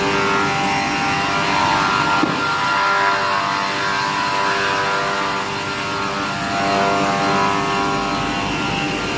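Wood-processing machine running steadily, its sound made of several held tones over a noisy hum.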